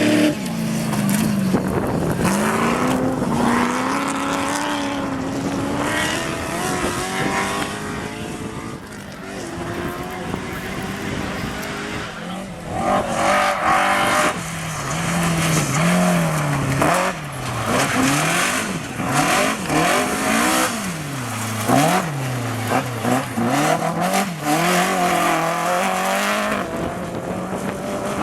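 Rally car engines at full effort: one engine pulling up through the revs, then another revving hard with quick rises and drops in pitch as it shifts gears and brakes for corners.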